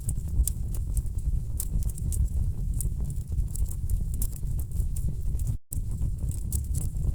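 Wood fire in a fireplace crackling, with irregular sharp pops and snaps over a steady low rumble of burning logs. The sound cuts out for an instant a little past halfway.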